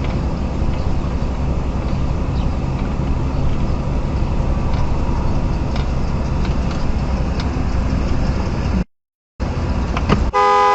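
Steady engine and road noise of a car driving, heard from inside the vehicle, which cuts off abruptly. After a brief silence a car horn blares near the end.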